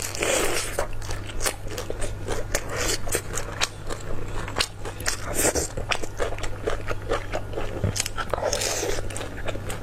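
Close-miked eating: crunchy bites and wet chewing, a dense run of sharp clicks and crackles with a few short louder mouthfuls, over a steady low electrical hum.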